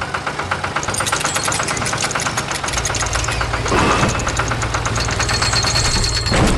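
Tractor engine running steadily with a rapid ticking knock. A whooshing sweep passes about four seconds in.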